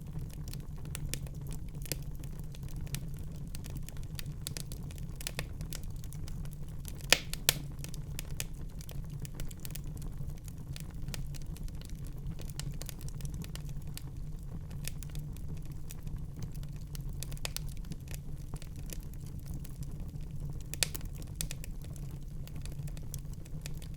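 Wood fire crackling in a fireplace: irregular sharp crackles and pops over a steady low rumble, with two louder pops about seven seconds in and another near the end.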